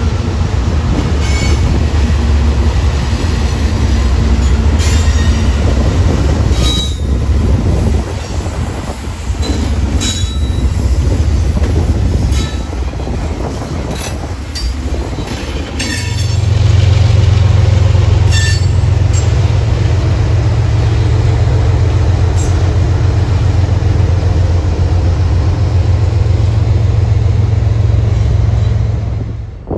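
A freight train passing close by. A diesel locomotive rumbles past, then tank cars roll by with wheel clicks over rail joints and brief high wheel squeals. A heavier, steady low rumble comes in about halfway through and holds until it drops off at the very end.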